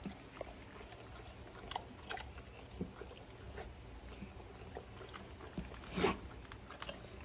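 A mother dog licking her newborn puppies: irregular wet smacks and clicks of tongue and mouth, with a louder one about six seconds in.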